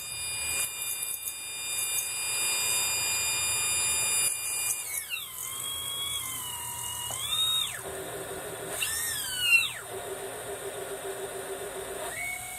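Quanum MT Series 4108 370KV brushless multirotor motor spinning with a pitched whine, its speed changed several times: the pitch falls about five seconds in, rises and falls twice, holds lower, then climbs again near the end. The uploader calls this motor bad.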